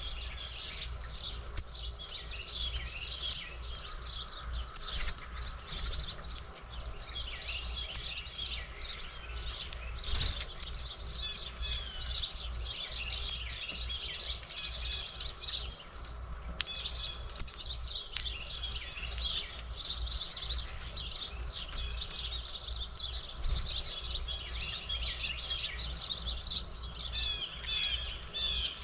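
Many small birds chirping and twittering together, with a sharp click every few seconds standing out above the chirps and a low rumble underneath.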